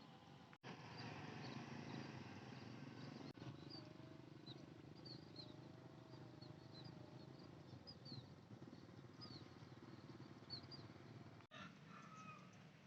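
Faint countryside ambience: small birds giving many short, high chirps over a steady low rumble, with a wavering tone for a few seconds near the middle.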